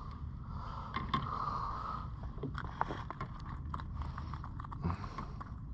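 Wind rumbling on an action-camera microphone that has no windsock, under a run of small clicks, knocks and scrapes from fishing tackle being handled.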